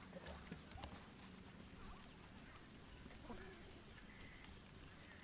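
Insects chirping: a steady high-pitched trill pulsing about twice a second, with faint animal calls in the background and one sharp click about three seconds in.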